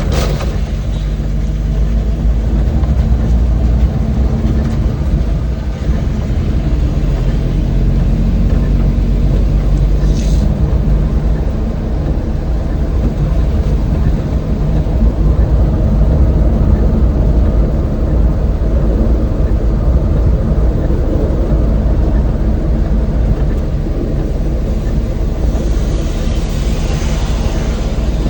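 Old van driving, a steady low engine and road rumble. There is a brief hiss about ten seconds in and a longer swelling hiss near the end.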